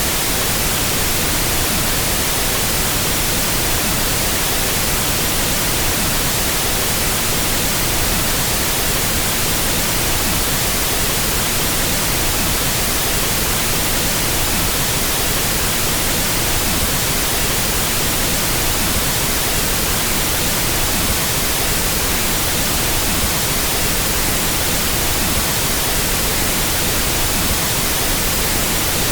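Pink noise test signal: a steady, even hiss across the whole frequency range, unchanging throughout, used for equalizing sound systems.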